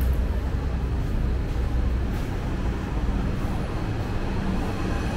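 Steady low rumble of a train passing on the railway viaduct over the market, under a general background din.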